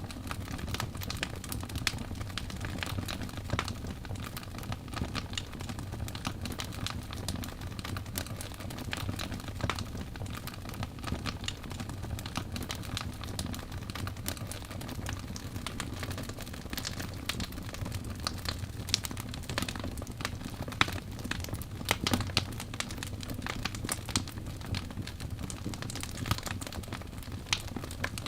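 Wood logs burning in a fireplace: a steady low rumble of flame under constant, irregular crackles and pops, a few louder pops about two-thirds of the way through.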